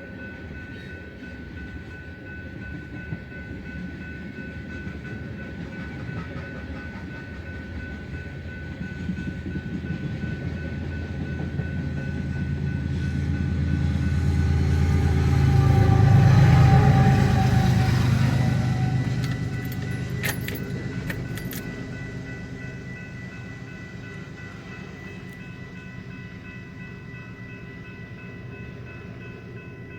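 Diesel locomotive pushing at the rear of a loaded coal train passes by, its engine rising to loudest about halfway through and then fading as it goes away. Steady high ringing tones sound throughout.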